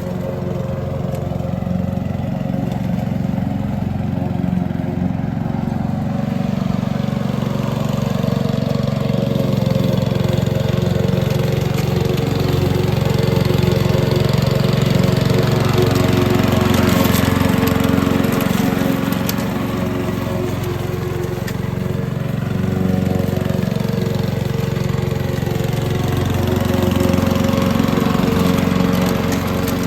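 Petrol lawn mower engine running steadily under load, its level swelling and easing a little.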